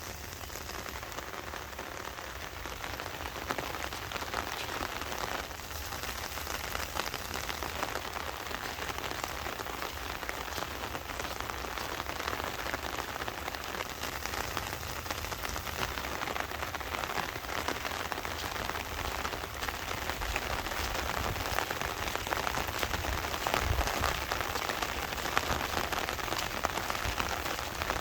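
Heavy monsoon rain falling steadily in a dense patter of drops, growing somewhat louder in the later part.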